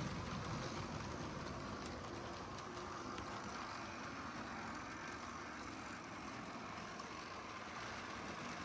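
HO-scale model train running steadily around its track: a low electric motor hum with the rolling rumble of many cars' wheels on the rails and a few faint clicks.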